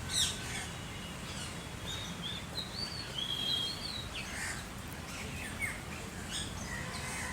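Several wild birds chirping and calling, with short sharp chirps and a run of whistled notes a couple of seconds in, over a faint steady outdoor background noise.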